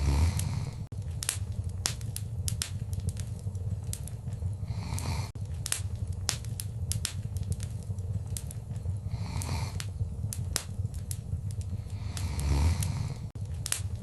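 Wood fire crackling in a fireplace: frequent sharp pops and snaps over a low steady rumble of the flames, with a few soft swells of hiss.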